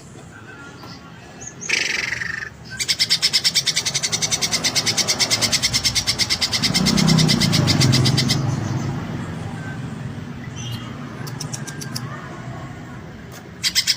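Cucak ijo (greater green leafbird) singing: a sharp falling call about two seconds in, then a fast, buzzy rattle of roughly ten pulses a second lasting about five seconds, short rattles a few seconds later, and another rattle starting near the end.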